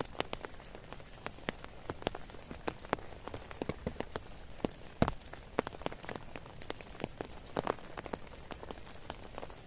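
Rain falling with a steady hiss, and individual drops tapping close by at irregular moments, one louder hit about five seconds in.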